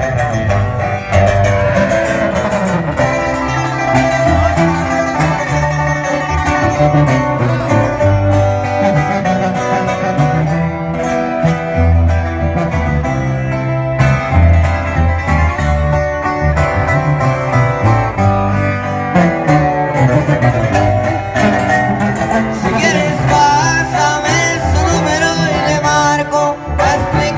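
Band music with plucked guitars over a steady bass line: an instrumental stretch of the song between sung verses.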